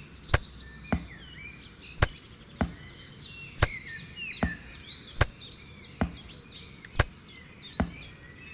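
About ten sharp chopping strikes of a hand tool on wood, coming unevenly about once a second, with small birds chirping throughout.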